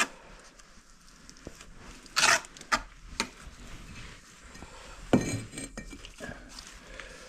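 Bricklaying handwork: a steel trowel and bricks clinking, tapping and scraping in scattered single strokes, with a short scrape about two seconds in and a louder knock with a brief ring about five seconds in.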